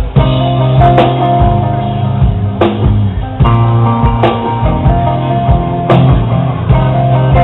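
Live progressive/alternative rock band playing an instrumental passage: held guitar and bass notes, with a drum hit about every second and a half.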